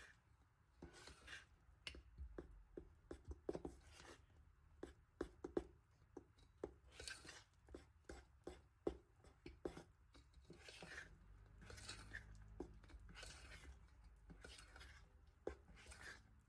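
Faint kitchen prep sounds: scattered light taps and short scrapes of kitchen tools being handled, over a low steady hum.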